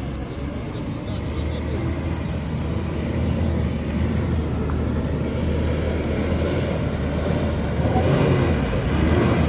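Heavy vehicle engine running steadily with a low hum, growing slightly louder over the few seconds.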